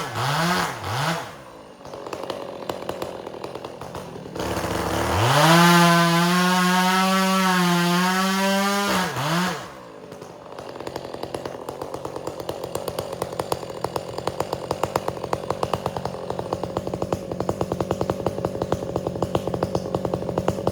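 Two-stroke chainsaw engine: it drops from high revs with a couple of quick blips in the first second or so. About four and a half seconds in it is throttled up and held high for about five seconds, then falls back and runs quieter, with a steady rapid ticking.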